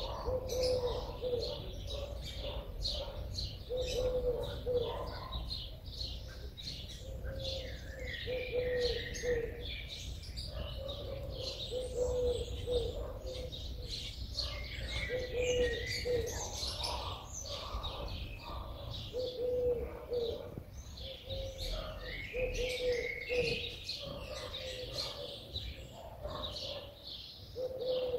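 A dove cooing in short, low notes repeated every second or two, while small songbirds chirp and twitter on and off in quick high calls.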